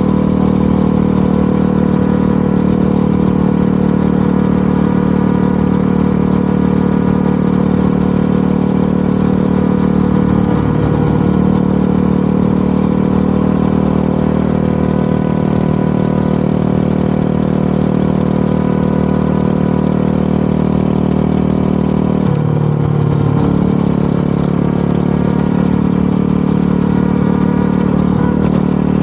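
Motorcycle engine running at a steady cruising speed. Its pitch briefly drops and recovers twice, about eleven seconds in and again about twenty-two seconds in.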